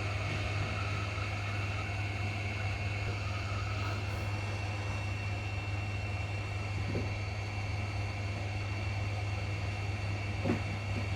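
Steady hum of running bench repair equipment: a low drone with a thin, steady high whine above it. A faint knock comes near the end.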